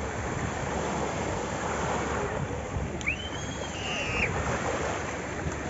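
Wind and sea water rushing on a boat at sea, with wind buffeting the microphone. About three seconds in comes one short high-pitched squeal lasting about a second.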